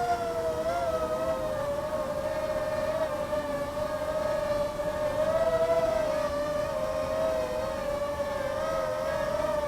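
Parrot Airborne Night minidrone hovering, its four small propeller motors whining at a steady high pitch. The whine is made of a few close tones that drift slightly up and down against each other as the motors adjust speed.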